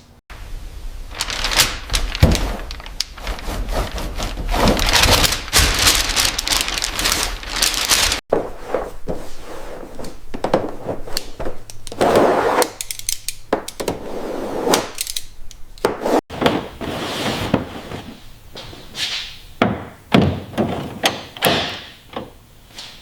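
Workshop sounds of tools working on car parts: a dense, irregular run of knocks, clunks and short scraping bursts, in three clips cut abruptly together.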